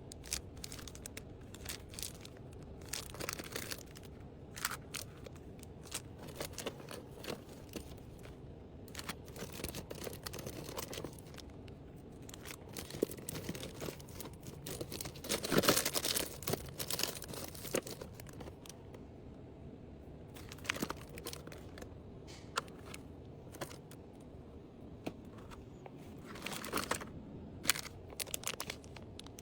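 Packaging being handled while items are packed: plastic and paper wrapping crinkling and rustling, with small clicks and knocks, in scattered bursts that are busiest around the middle and again near the end.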